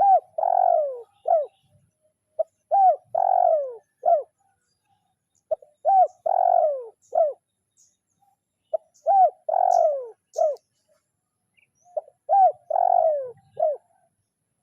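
Spotted dove (tekukur) singing its cooing song five times, about every three seconds: each phrase is a couple of short notes, a longer falling coo and a short closing note. It is the call the bird gives to challenge a rival.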